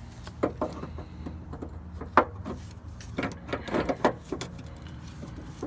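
A new hydraulic engine mount being fitted into place in the engine bay, metal parts knocking and clunking together in a string of sharp knocks. The loudest knock comes a little over two seconds in, with a quick cluster about three to four seconds in, over a steady low hum.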